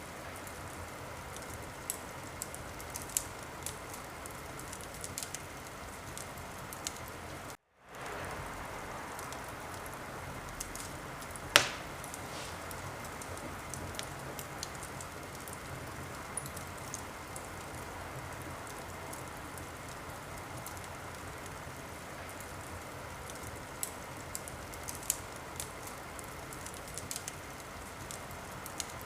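Wood fire in a fireplace crackling: a steady hiss with scattered sharp snaps, and one loud pop about eleven seconds in. The sound cuts out for a moment at about eight seconds.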